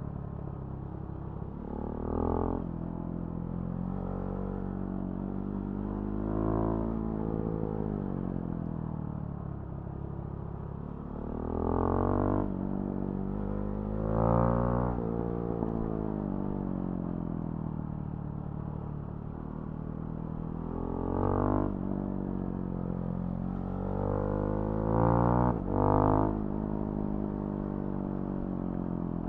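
Husqvarna Svartpilen 701's single-cylinder engine through a Remus NXT aftermarket exhaust, under way. The revs rise in several short, louder pulls and then sink back as the throttle is rolled off.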